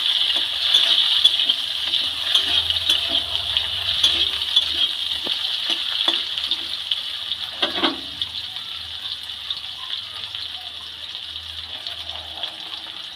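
Bitter gourd and potato pieces sizzling in hot mustard oil in a metal kadai, with a spatula scraping and clicking against the pan now and then. The sizzle slowly dies down.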